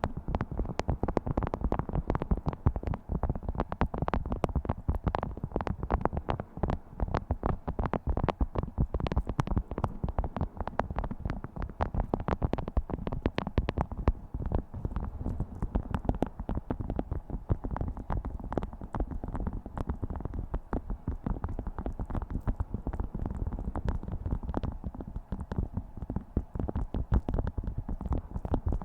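Beeswax food wrap being crinkled and handled close to the microphone: a dense, continuous crackling of many small irregular clicks.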